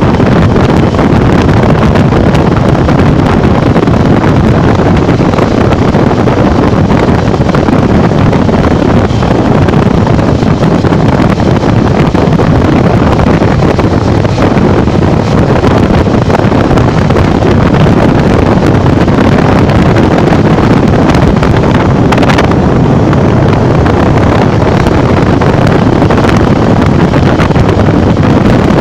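Loud, steady wind buffeting the microphone of a Honda Bros 150 motorcycle ridden at speed, which all but buries the engine.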